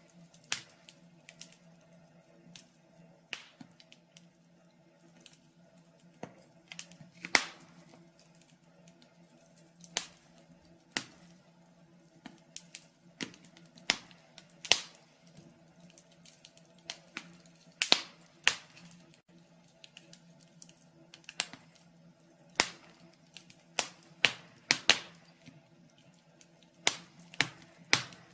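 Wood fire in a fireplace crackling: irregular sharp pops and snaps, a handful of them louder, over a faint steady low hum.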